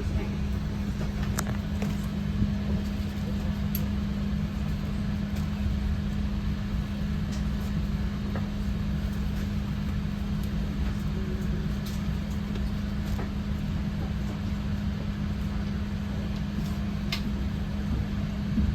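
Steady cabin noise inside an Airbus A350-900 airliner: an even rumble of engines and airflow with a constant low hum, plus a few faint clicks.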